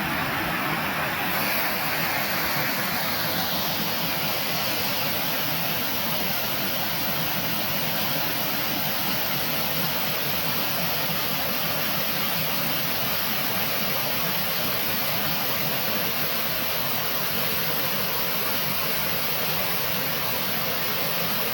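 Steady, loud rushing noise with no distinct events; its hiss changes character about a second in.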